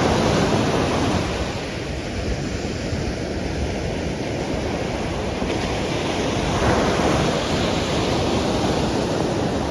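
Sea waves washing onto the shore, swelling near the start and again about seven seconds in, with wind buffeting the microphone.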